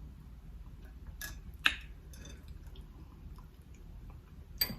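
Close-miked chewing of a mouthful of rice, avocado and mussel: wet mouth smacks and clicks. Two sharp smacks come about one and a half seconds in and another near the end.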